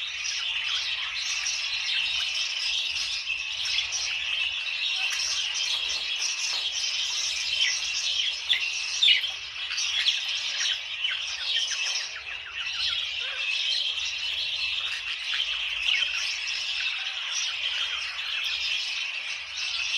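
Budgerigars chattering: a dense, unbroken stream of overlapping chirps, warbles and squawks.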